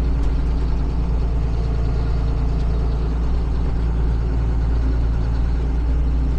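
Tractor engine running steadily with an even, unchanging hum.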